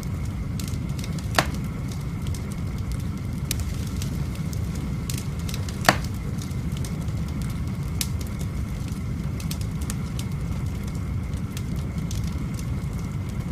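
Wood fire burning in a fieldstone fireplace, crackling steadily, with two sharp pops, about a second in and near the middle.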